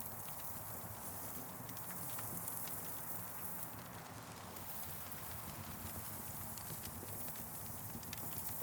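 Campfire burning, with irregular crackles and pops over a steady hiss.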